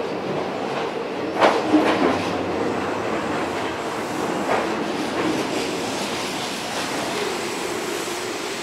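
Hankyu 1000-series electric train running along a curved platform. Its wheels click over rail joints about one and a half seconds in, again around two seconds, and once more around four and a half seconds, over a steady rolling rumble.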